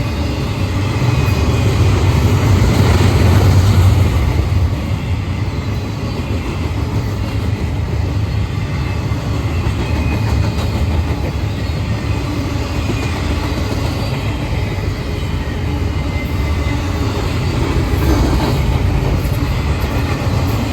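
Intermodal freight cars of a passing train rolling by, a steady low rumble of steel wheels on the rails that swells a couple of seconds in and again near the end.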